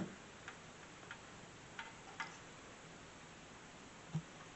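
Faint light clicks and taps of plastic SATA power connectors being handled and pushed onto hard drives: a few scattered clicks, with a soft thump at the start and another near the end.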